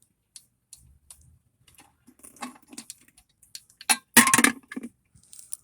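Light metallic clicks and ticks of a dirt bike's oil drain bolt being unscrewed by hand. About four seconds in there is a louder, brief burst of clattering.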